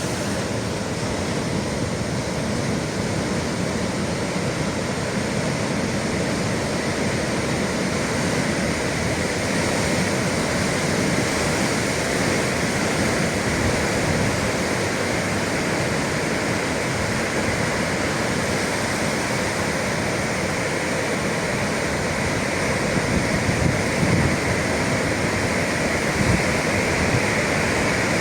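Sea surf rushing steadily against the shore, a continuous wash of water noise with a few slightly louder surges near the end.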